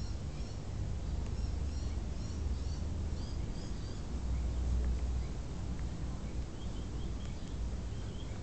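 Small birds chirping in short, high calls, many in the first few seconds and more near the end, over a low steady rumble.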